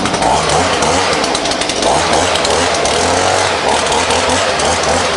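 Leaf blower running steadily, a dense rushing hiss over a low engine hum, swelling every second or two as the air stream is swept across the porch floor.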